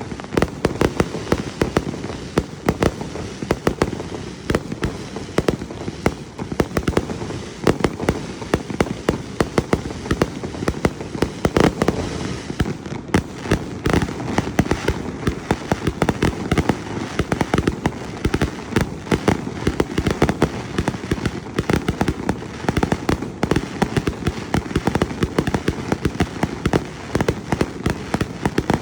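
Fireworks display: a dense, continuous barrage of sharp bangs and crackling bursts, several a second.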